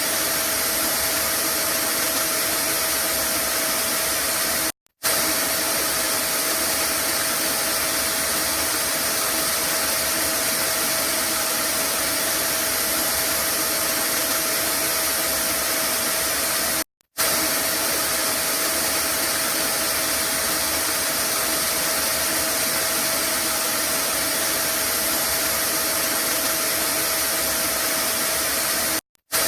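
Vacuum cleaner running steadily: a loud, even rushing noise with a constant hum tone. It cuts out to silence for a moment three times, about twelve seconds apart, where the recording loops.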